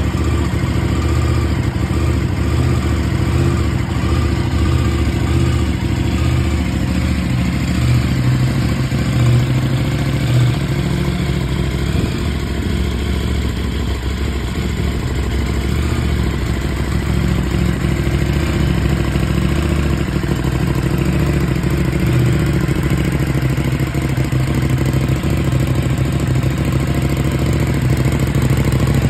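KTM 790 Duke's parallel-twin engine idling steadily through an Akrapovic slip-on exhaust, with the bike stationary in neutral.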